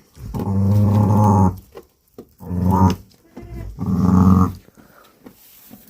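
Ewe bleating three times, long low calls, the first the longest.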